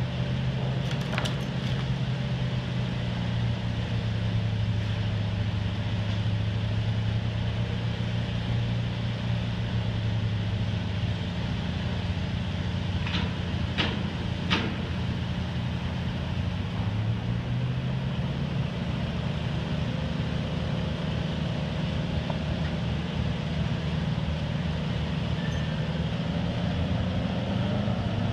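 Detroit Diesel engine of an American Hoist & Derrick 9530 crane running steadily, its tone shifting slightly about two-thirds of the way through. A few short sharp clicks come through about a second in and twice around the middle.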